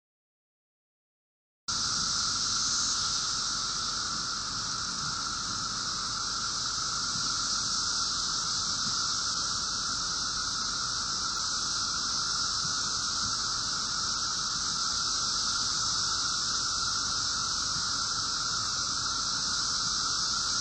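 Chorus of 17-year periodical cicadas, a steady unbroken drone that starts after a couple of seconds of silence.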